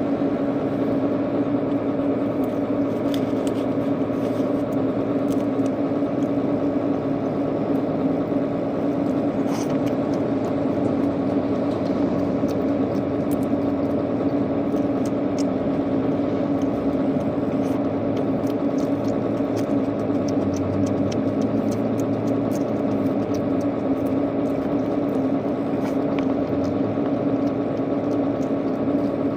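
A steady machine hum with a strong low tone that holds unchanged throughout, with faint short clicks scattered over it.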